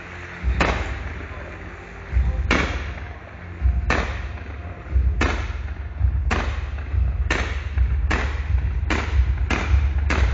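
Display fireworks bursting in the air: about a dozen sharp bangs, a second or two apart at first and coming faster toward the end, over a steady low rumble.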